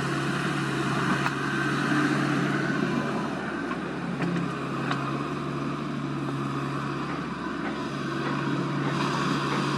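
Diesel engine of heavy earthmoving equipment running steadily, its note sagging briefly a few times as the load changes, with a few faint knocks over it.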